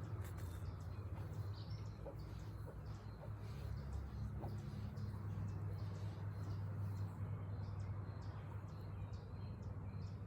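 Birds chirping with short repeated high notes, over a steady low hum.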